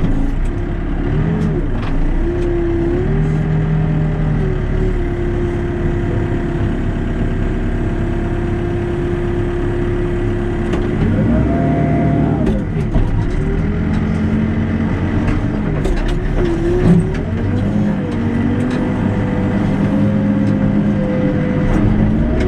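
Backhoe diesel engine running under hydraulic load as the bucket works, its pitch rising and falling repeatedly with the throttle and load, with a few clanks and one louder knock about two-thirds of the way through.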